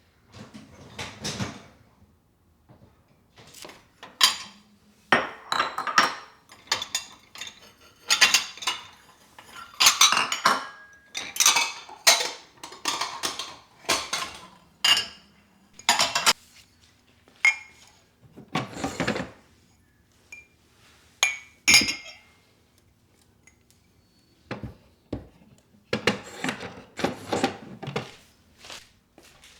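Dishes and cutlery clattering and clinking as they are handled and set down, in irregular knocks with brief ringing, busiest through the first half and again near the end.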